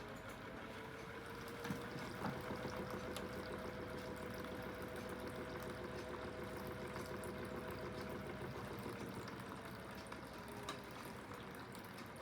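Aidoo 1 kg mini washing machine running with water moving inside, its direct-drive motor humming with a tone that rises in pitch over the first couple of seconds, holds steady, then sinks again near the end. A couple of light clicks come about two seconds in.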